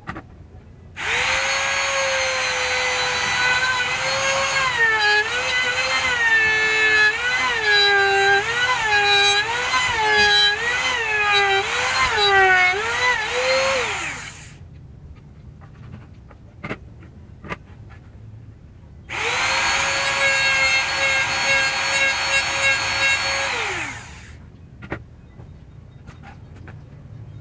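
Bosch GMR 1 palm trim router running at full speed, its pitch dipping about once a second as the bit loads up in the wood, then winding down after switch-off. A few seconds later it runs again steadily for about five seconds and winds down.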